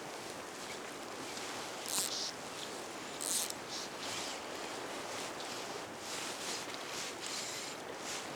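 Steady rush of flowing river water, with a few brief scuffs about two and three seconds in.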